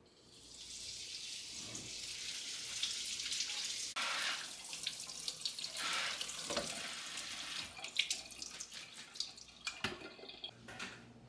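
Water running from a tap into a sink, turned on just after the start; the stream changes as things are held under it, then breaks into splashes and drips near the end.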